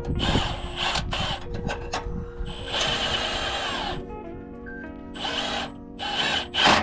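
Handheld power tool run in short bursts, with one longer run of about a second and a half partway through, over background music.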